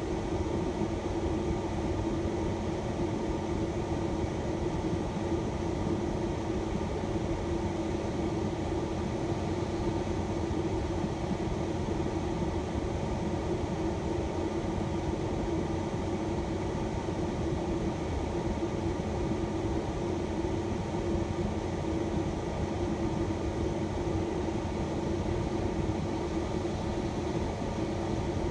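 Shuttle van's engine heard from inside the cabin, a steady hum with a few fixed tones that doesn't change.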